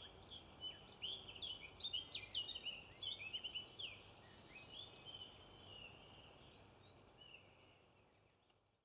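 A flock of birds chattering: many short, high, overlapping chirping calls that rise and fall in pitch, busiest in the first half, then fading out near the end.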